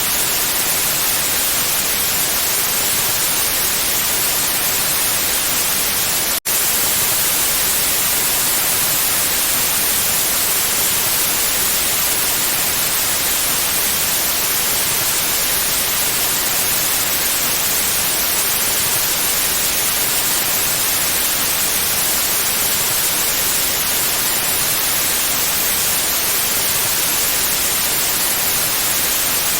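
Steady electronic white noise, an even hiss across all pitches, with a split-second gap about six seconds in.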